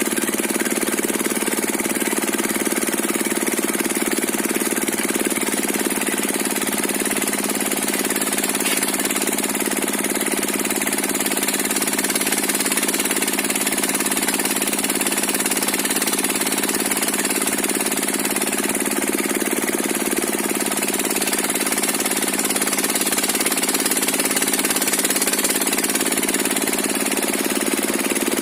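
Diesel engine driving a circular saw bench, running steadily.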